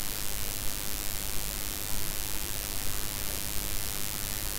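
Onion, green chilli, garlic and ground-spice masala sizzling steadily in hot oil in a pan: the spices are being fried down (koshano).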